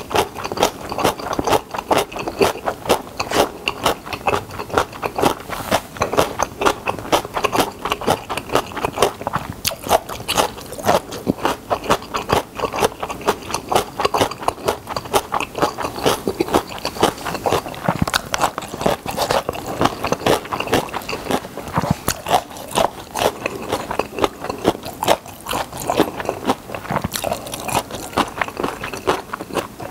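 Close-miked chewing of a mouthful of spicy stir-fried instant noodles: a steady run of wet mouth clicks, several a second.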